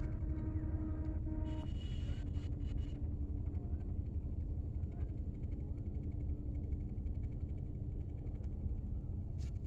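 Steady low rumble with a faint steady hum, like a motor running at a distance, outdoors in an open field.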